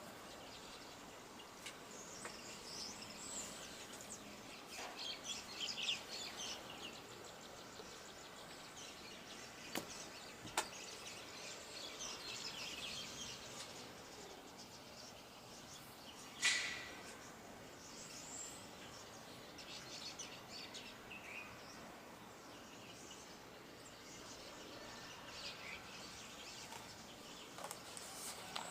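Birds chirping and twittering in scattered bursts over a steady faint outdoor hiss. A few faint clicks are heard, and one sharp, louder click comes a little past halfway.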